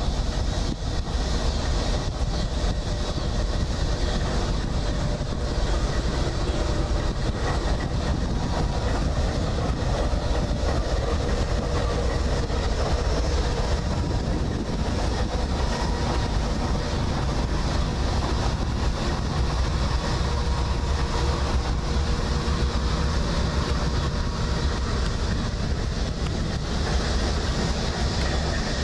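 Freight train passing close by: CSX and Santa Fe diesel locomotives running, steel wheels rolling on the rails, a loud, steady noise.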